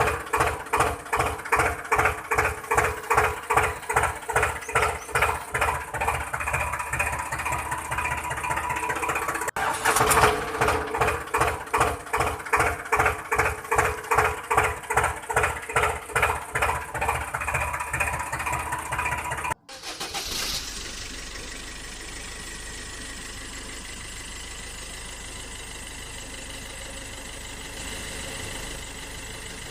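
Tractor-style engine chugging with an even beat of about three a second. Near the middle it breaks off briefly, and about two-thirds of the way through it gives way to a steadier hum.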